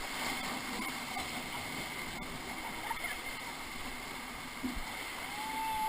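River water rushing and lapping around a whitewater raft as a steady hiss of moving water, with a single click about two seconds in and a short high steady tone near the end.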